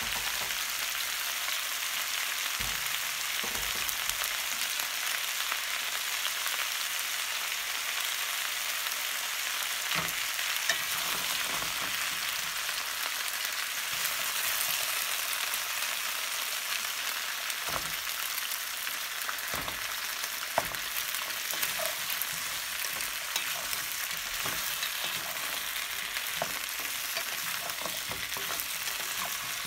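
Sliced potatoes, onion, carrot and zucchini sizzling steadily in oil in a pan. A wooden spatula stirs them, with scattered knocks and scrapes against the pan.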